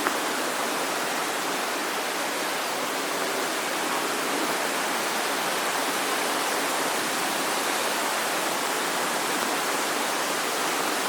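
Steady rushing of fast-flowing water.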